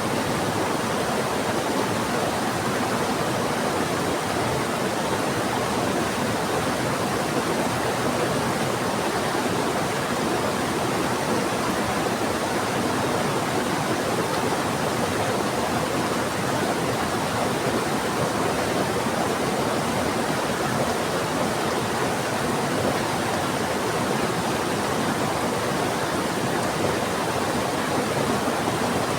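A fast-flowing river rushing steadily, with heavy rain mixed in; an even, unbroken wash of water noise.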